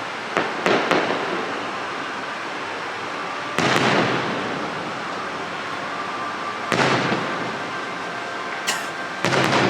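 Fireworks display: aerial shells bursting, a few seconds apart, about a second in, near four seconds, near seven seconds and twice near the end, over a steady background hiss.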